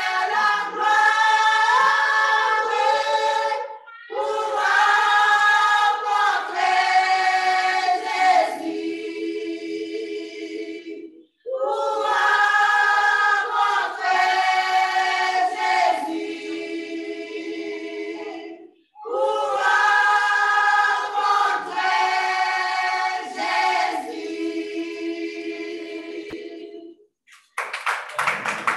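Choir singing a French hymn a cappella, in long phrases separated by brief breaths of silence. Near the end the singing stops and clapping begins.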